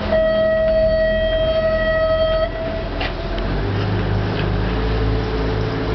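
A boat horn sounds one long steady blast of about two and a half seconds, then a boat engine runs with a low steady rumble.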